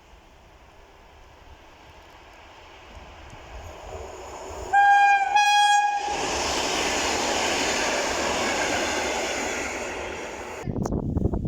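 EN61 electric multiple unit approaching and sounding two short horn blasts about five seconds in, a greeting from the driver. It then runs past with a loud rolling rumble. Near the end the sound changes abruptly to a clattering.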